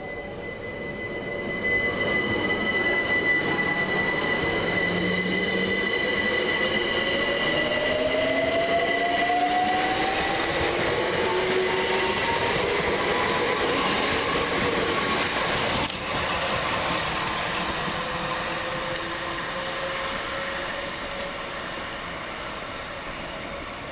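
Electric multiple-unit train running at the platform, its traction motors whining in several tones that rise steadily in pitch as it accelerates, over rail noise that swells about two seconds in and fades toward the end. A sharp click sounds about sixteen seconds in.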